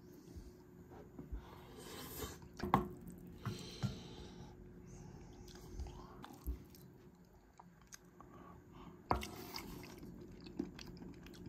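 A person chewing and biting food close to the microphone, with irregular small clicks and crunches, over a faint steady hum.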